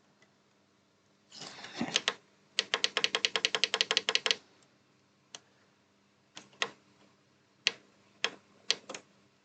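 Typing on a computer keyboard: a quick, even run of keystrokes at about ten a second, then a few single key clicks. A short rustle comes just before the run.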